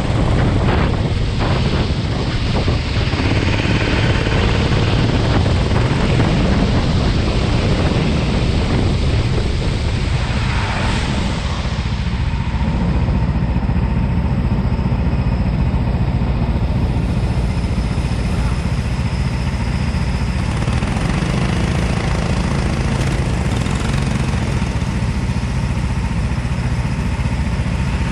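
Racing kart engine running on the track, a loud, steady low rumble with no pauses.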